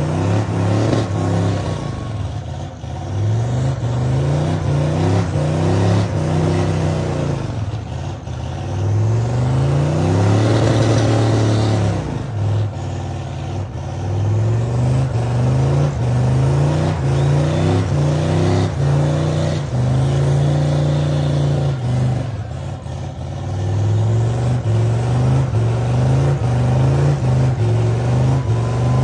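Truck engine revving hard during a burnout, the revs climbing and dropping again and again with a longer held rev near the middle.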